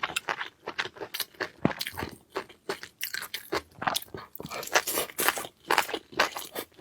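A person eating, chewing and crunching with many quick, irregular crackling bites.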